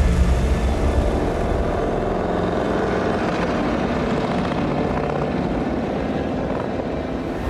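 Harley-Davidson motorcycle's V-twin engine running hard, a fast, steady throbbing exhaust that eases off slightly towards the end.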